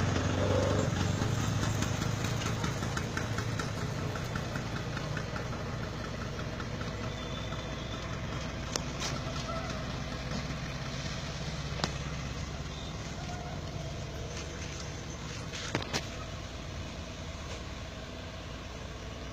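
Diesel locomotive and its passenger coaches running away along the track, the engine rumble and wheel noise fading steadily. A rapid rhythmic clatter in the first few seconds, and a few sharp clicks in the second half.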